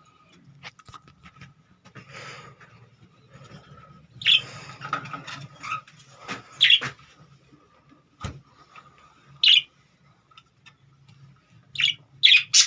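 Pet budgerigars chirping: short, sharp chirps every few seconds, a quick pair near the end, with scattered light clicks between them.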